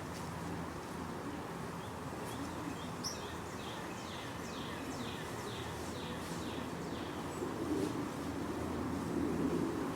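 A songbird singing a series of quick, falling whistled notes, about three a second for some four seconds, over steady outdoor background noise with a low hum. A low rumble swells near the end.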